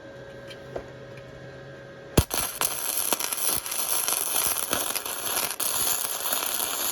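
Wire-feed welder arc crackling as a weld is run on a crack in a KX250 motocross frame, with the heat and wire speed turned down. The arc strikes with a sharp pop about two seconds in, crackles steadily and cuts off suddenly at the end.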